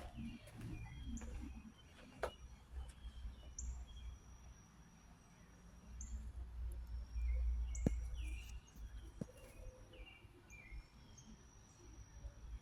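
Small birds chirping in short scattered calls over a low outdoor rumble, with a couple of sharp clicks.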